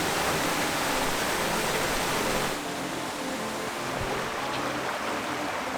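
Jungle stream water rushing and splashing over rocks, a steady hiss that eases slightly about two and a half seconds in.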